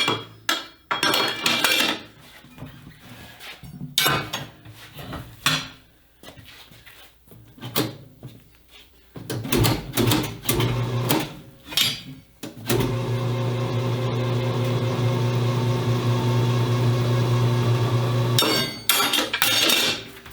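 Metal clanks and knocks of a wheel and tools being worked on a John Bean tire changer. A little under two-thirds of the way in, a steady motor hum starts, likely the machine's turntable turning, and runs about six seconds before it stops and the clanking resumes.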